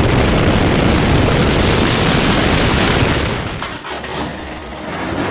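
Loud rushing road noise of a truck going by at speed, dying down about three and a half seconds in.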